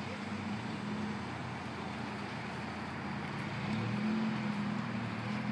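Car engine running at idle, a low steady hum that swells slightly about four seconds in.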